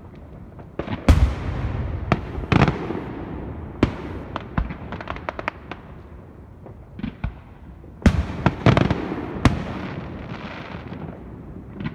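Aerial fireworks shells bursting: a series of sharp booms, each trailing off in a rolling echo, with a quick run of smaller pops about four to five seconds in and another cluster of loud booms about eight to nine seconds in.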